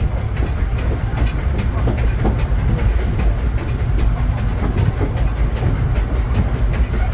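Disneyland Railroad passenger coach rolling along the track, heard on board: a steady low rumble with a run of irregular clicks and knocks from the wheels over the rails.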